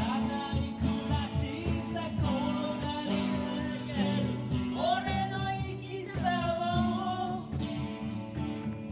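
A man singing to a strummed Yamaha FS-TA TransAcoustic acoustic guitar, with a cajon beating time underneath.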